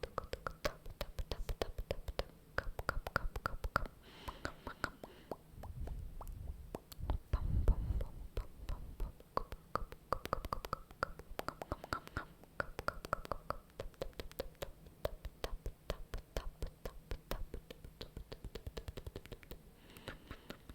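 ASMR mouth sounds close to the microphone: a rapid, dense run of wet tongue and lip clicks, with short whispered breaths between them. About seven seconds in there is a louder, low, muffled rustle.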